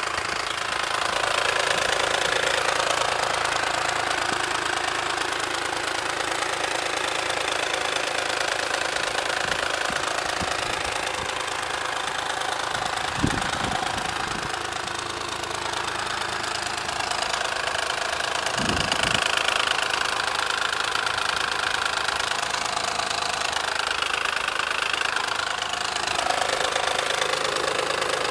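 Ford Probe GT engine running steadily with a harsh, terrible-sounding noise from the engine bay whose source is not yet found. There are two brief low thumps partway through.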